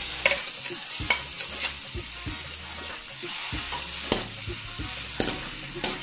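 Chopped tomato sizzling in hot oil in a metal pot, being fried to cook off its water, with irregular clicks and scrapes of a spatula stirring it against the pan.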